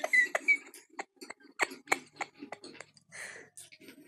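Mukbang eating sounds from a TV: close-miked chewing and lip-smacking, a quick irregular string of sharp wet clicks. A short high squeak sounds right at the start.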